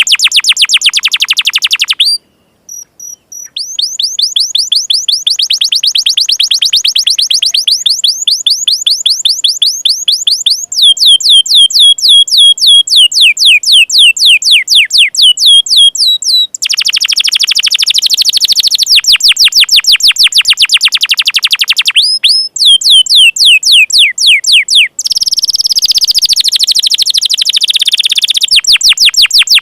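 Domestic canary singing loud, fast trills: long runs of rapidly repeated notes, each sweeping down in pitch, with a few brief breaks between phrases.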